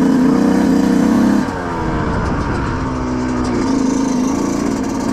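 2005 Yamaha YZ125 two-stroke single-cylinder engine revving. It is held high, backs off about a second and a half in, then climbs back to a steady high note.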